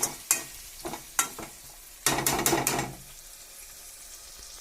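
Chicken and halved tomatoes sizzling as they fry in a pan of hot coconut oil, with sharp clicks of a spoon stirring against the pan. About two seconds in comes a louder burst of clatter and sizzle lasting under a second.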